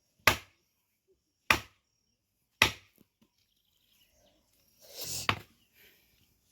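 Firewood being chopped: three sharp chopping strikes about a second apart, then a longer, noisier knock of wood with one more strike a little before the end.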